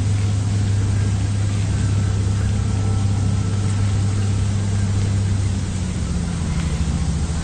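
Simulated diesel engine running on an RC construction model, a steady low drone with a noisy hiss over it. About six seconds in it drops a little in pitch and turns to a more pulsing chug.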